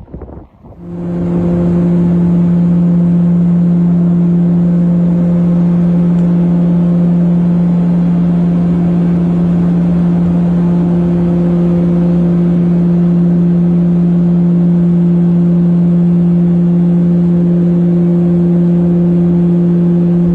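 Aircraft engines at takeoff power: a loud, steady drone at one even pitch that sets in sharply about a second in.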